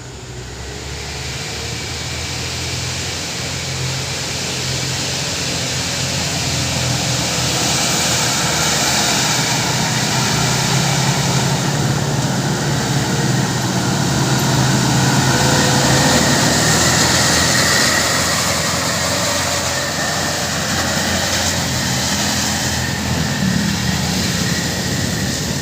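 Heavily loaded truck's diesel engine labouring as the truck approaches and passes, with a steady low drone under tyre and road noise. It grows louder over the first several seconds, holds loud through the middle, and eases a little near the end.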